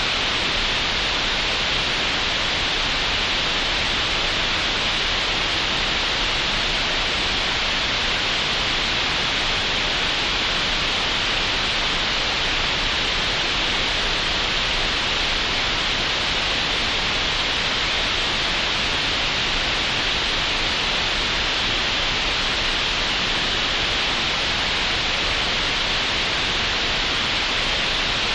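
Synthetic green noise generated in Audacity: a steady, unchanging hiss with a bright, upper-middle emphasis.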